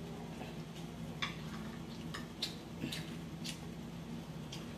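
A person chewing food with wet mouth sounds: about half a dozen sharp, irregularly spaced lip smacks and clicks over a steady low hum.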